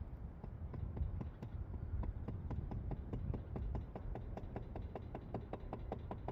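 Trowel tapping a brick down into its mortar bed to bring it level: a quick, even run of light taps, about five a second, each with a short ring.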